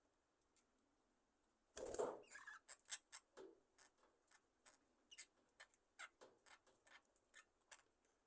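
Budgerigars in an aviary settling for the night, faint: a brief rustle about two seconds in, then a run of quick, soft clicks and short chirps.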